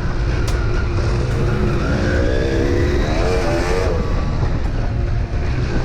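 Dirt bike engine running hard while riding, its revs climbing about two seconds in and dropping back about two seconds later, over a heavy low rumble.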